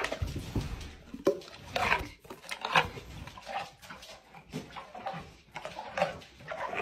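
A cow biting into an apple and chewing it, with a sharp crunch at the start and irregular crunches every second or so after.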